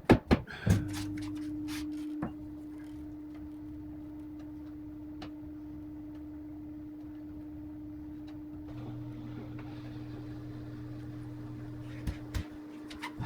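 A steady low hum with one sharp knock about half a second in, typical of a tap with a hammer on a plastic fitting tool. A few faint clicks come near the end.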